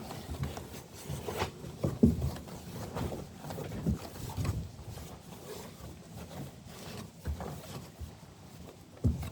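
Irregular knocks, clicks and rustles of hands handling and fitting parts at a car's rear light.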